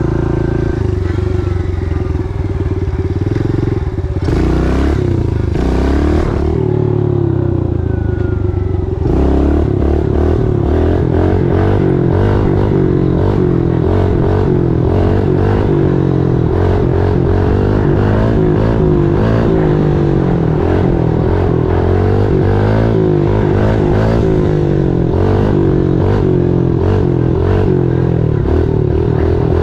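Small pit bike engine being ridden, its note rising and falling as the throttle opens and closes.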